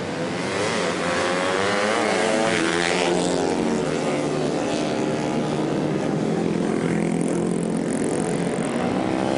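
Several racing motorcycle engines running at high revs, their pitch rising and falling as the bikes accelerate and pass.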